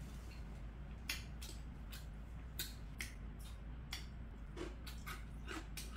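A person eating: chewing and lip smacks heard as about a dozen short, sharp clicks at irregular intervals, over a faint steady low hum.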